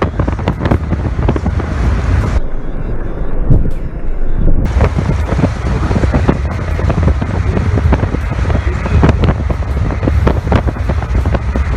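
Wind buffeting the microphone: a loud, uneven low rumble with crackles running through it.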